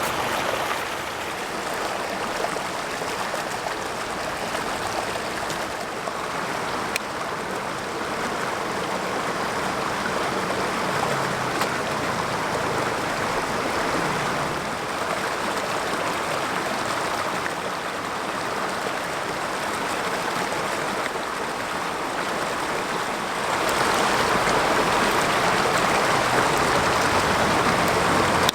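Mountain stream rushing steadily over rocks, growing louder for the last few seconds, with an occasional faint click.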